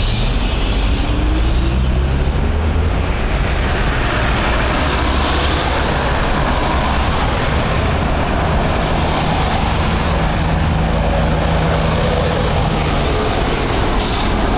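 A vehicle engine running steadily with a low hum, under a constant rushing noise.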